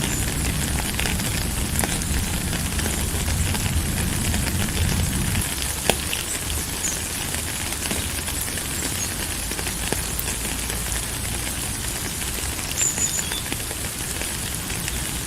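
Steady rain falling, a dense hiss full of small drop clicks. A low rumble under it fades out about five seconds in.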